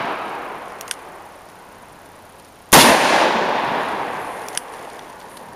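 A single gunshot about three seconds in, with a long echo that fades over the next two seconds. At the start, the echo of the shot before it is still dying away. A small sharp tick follows each shot about two seconds later.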